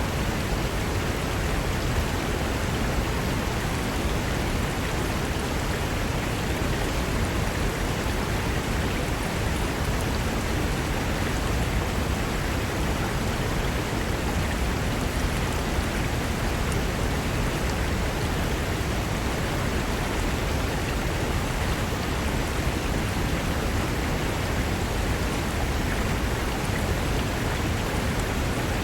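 Fast-flowing mountain river rushing over rocks: a steady, unbroken roar of water.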